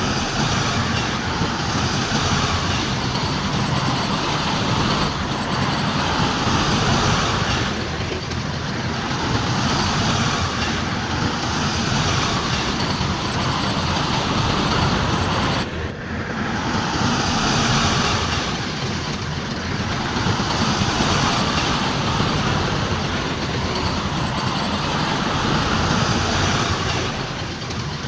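Heavy diesel earthmoving machinery running, its engine noise rising and falling every few seconds, with a brief break about halfway through.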